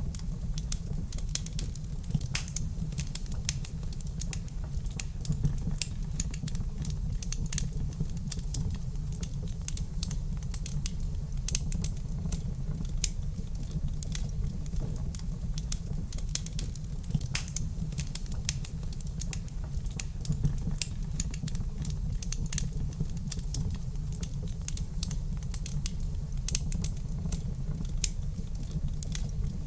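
Wood fire crackling in a fireplace: a dense, irregular stream of small snaps and clicks with an occasional louder pop, over a steady low rumble of the burning.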